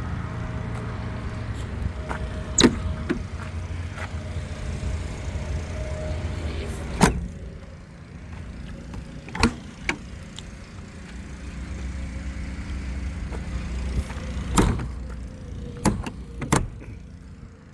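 A steady low rumble with about half a dozen sharp knocks and clicks spaced irregularly through it.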